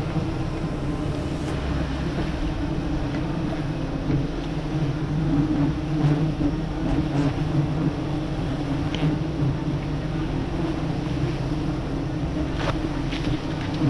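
Steady, dense buzzing of a large mass of wild honeybees stirred up around their comb, with a few faint knocks near the end.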